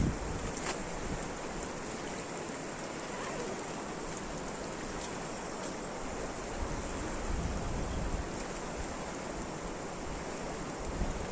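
Steady rush of rain, with gusts of wind buffeting the microphone now and then.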